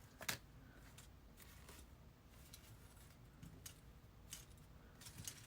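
Near silence: room tone with a few faint clicks, the most distinct about a third of a second in.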